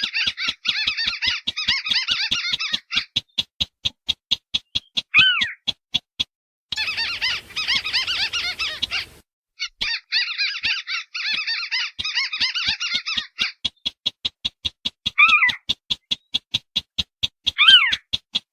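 Lure recording mixing sintar beker and white-browed crake calls: an even run of rapid ticking notes with three bouts of dense chattering and a few downward-slurred calls. One chattering bout, about halfway through, comes with a hiss.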